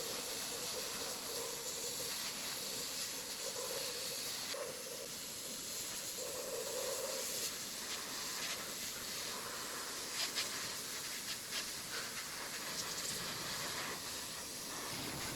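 Steady hissing noise, with a few faint clicks near the end.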